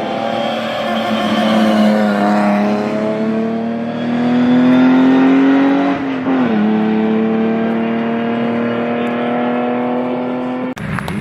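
Competition car engine pulling hard under acceleration, its pitch climbing steadily. About six seconds in the pitch drops for a gear change, then climbs again. Near the end the sound cuts off suddenly.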